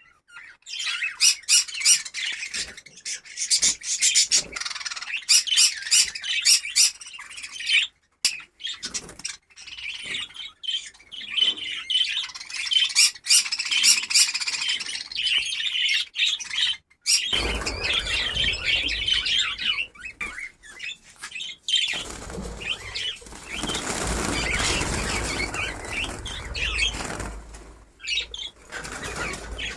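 A colony of budgerigars chattering and chirping rapidly, with wings fluttering. About halfway through a low rumble joins, and from about two-thirds of the way in a broad noisy rush runs under the chatter.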